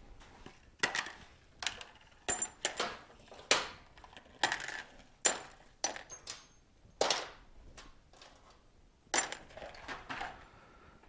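Metal parts and tools clinking and clattering as they are handled and set down during a motorcycle teardown: about a dozen sharp, irregular clinks, some with a short metallic ring.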